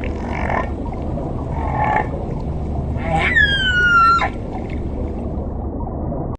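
An animal's call over a steady low rumble: after two faint rough bursts, one clear pitched cry about a second long that falls in pitch and ends abruptly.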